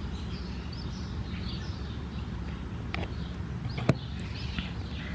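Small birds chirping, short high calls that slide down in pitch, over a steady low hum. A faint click about three seconds in and a sharper click about a second later.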